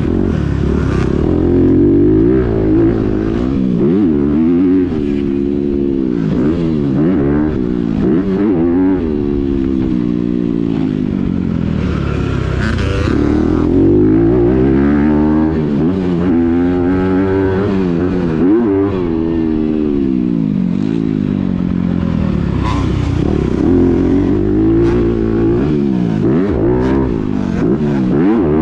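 A Honda CRF250R's single-cylinder four-stroke engine, through a Yoshimura titanium exhaust, being ridden: the revs climb and fall back again and again, every second or two, as the throttle is worked.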